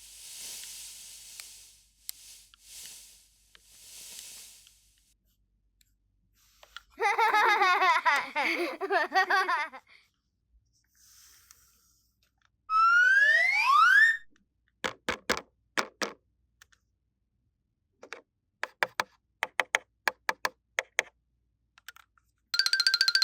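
A string of cartoon-style sound effects: soft hissing puffs, a warbling giggle-like sound, a quick rising slide-whistle glide, a long run of sharp clicks, then a bright chiming jingle starting near the end.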